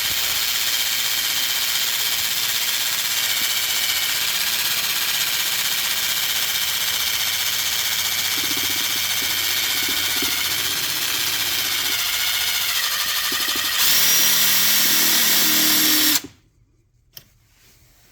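Electric drill running steadily as it bores into a broken plastic dipstick lodged in an engine's dipstick tube. The motor speeds up and gets louder near the end, then stops abruptly, followed by one light click.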